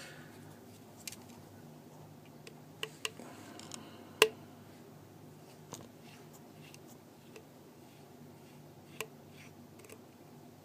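Small tools clicking and tapping on the parts of an iPhone 4S being taken apart: scattered light clicks, the sharpest about four seconds in, over a faint steady low hum.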